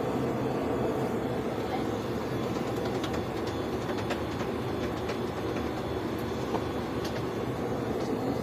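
Mini electric capsule chopper running steadily, its motor and spinning blades making a dense whirring noise with scattered sharp clicks.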